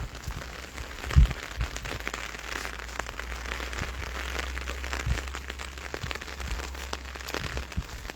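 Light rain pattering as a dense run of small crisp ticks, with wind on the microphone as a steady low rumble and a thump about a second in.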